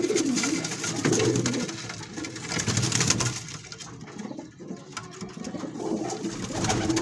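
Domestic pigeons cooing in repeated low bouts, with some rustling noise around the middle.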